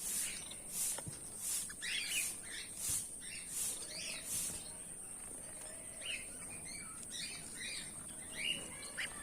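Goldfinches chirping and twittering in short, scattered calls over a steady high hiss.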